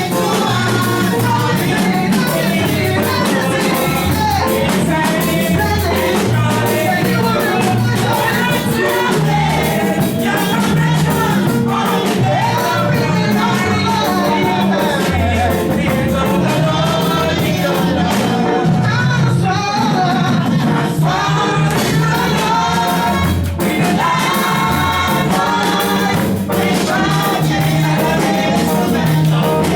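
Gospel music with singing voices over a steady beat and bass line.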